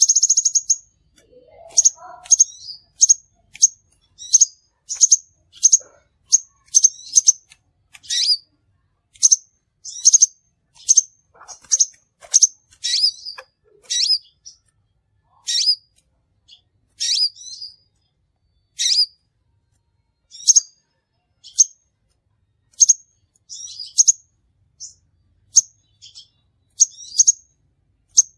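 Crimson sunbird calling: a long series of short, high, sharp chirps, about one or two a second, some with a quick downward slide at the end.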